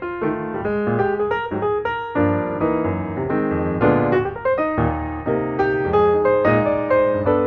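Background piano music: a light melody of quickly struck notes over chords, at a steady tempo.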